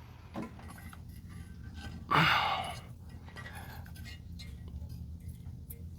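A man's hard exhale of effort, once, about two seconds in, over a faint steady low hum.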